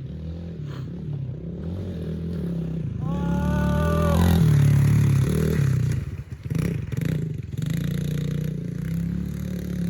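Yamaha TT-R110 pit bike's small four-stroke single-cylinder engine running under throttle as it is ridden over a muddy track, getting louder around the middle, then dropping off briefly before picking up again.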